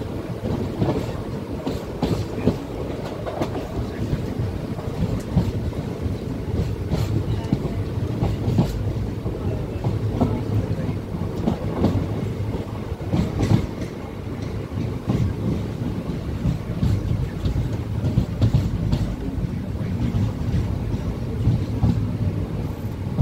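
Passenger train running on its rails, heard from on board: a steady low rumble with irregular clicks and clatter from the wheels.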